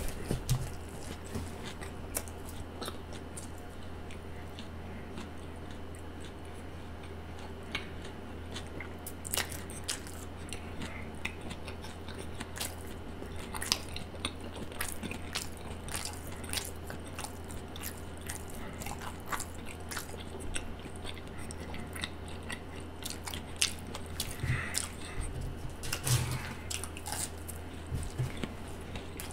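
Close-miked chewing of pieces of a Subway sandwich: wet mouth clicks and smacks scattered throughout, over a steady low hum.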